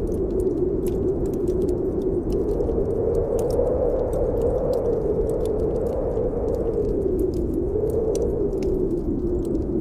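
Snowstorm wind howling steadily, its pitch slowly rising and falling, over a wood fire in a fireplace crackling with frequent small pops.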